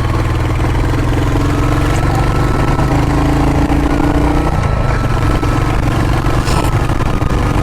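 Motorcycle engine running steadily on the move, with wind rushing over the microphone; a tone in the engine sound rises slowly, then drops out about four and a half seconds in.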